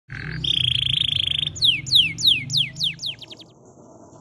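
A songbird singing. It gives a short note, then a buzzy trill held for about a second, then a run of quick whistled notes that each sweep downward in pitch, coming faster and fading out.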